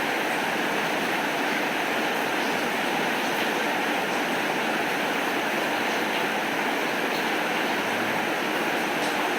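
Steady rain, an even hiss that does not change, with faint scattered drop ticks and no thunder.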